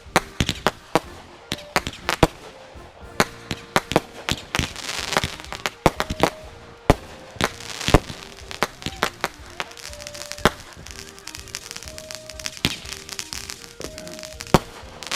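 Fireworks going off in a rapid, irregular string of sharp bangs and crackles, several a second, with music with a stepping melody playing underneath.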